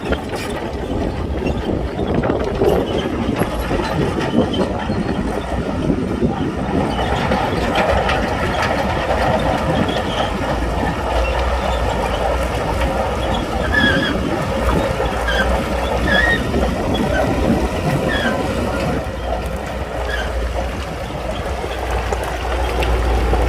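Shantui bulldozer working, its diesel engine and tracks making a steady, dense mechanical noise with a low rumble.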